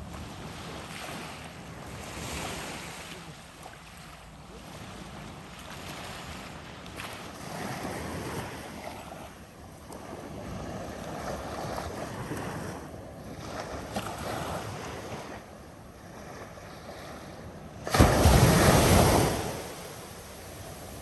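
Ocean surf washing in and out in repeated swells, with wind on the microphone. Near the end, a loud burst of noise, heaviest in the low end, lasts about a second and a half.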